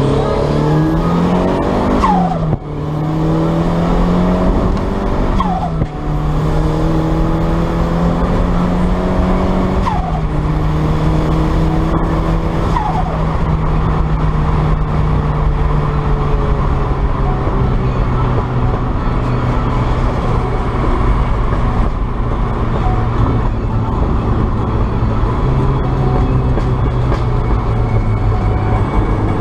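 Turbocharged 1990 Mazda MX-5's 1.6 inline-four, with a Garrett T25 turbo and straight-through exhaust, accelerating hard through the gears. The engine note climbs and drops sharply at gear changes about two and a half and six seconds in, with turbo flutter on lift-off. It rises again, drops about ten seconds in, then settles to a steady cruise.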